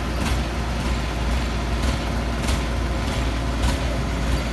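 Heavy diesel engine of an excavator running steadily: a low rumble, with a few faint clicks.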